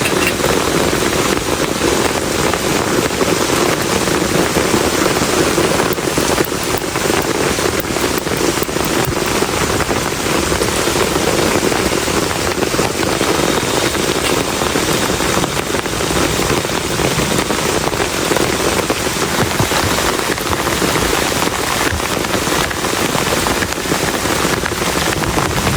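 Heavy rain falling steadily, a dense rush of drops striking a plastic tarp shelter, with no break or let-up.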